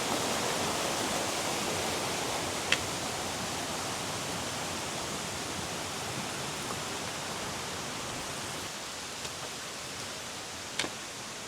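Tat Sae waterfall rushing steadily, slowly getting a little quieter, with two short sharp clicks, one about three seconds in and one near the end.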